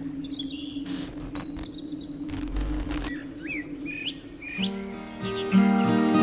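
Birds chirping and calling in short rising and falling notes over a steady low hum, with a brief rush of noise a little before the middle. About four and a half seconds in, plucked acoustic guitar music comes in and becomes the loudest sound.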